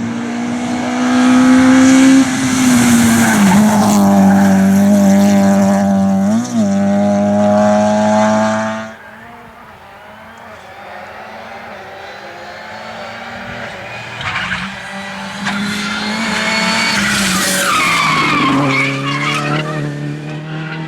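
Rally cars at full throttle passing close, their engines at high revs with tyres skidding. The first car's engine holds a high, steady note with a quick blip about two thirds of the way through its run, then drops away suddenly about nine seconds in. After that another car approaches, growing steadily louder, its engine note clear over the last few seconds.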